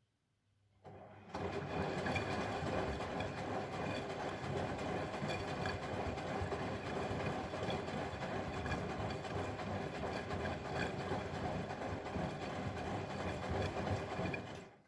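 Bosch Maxx WFL 248Y washing machine running: a steady mechanical run that starts about a second in and stops suddenly near the end.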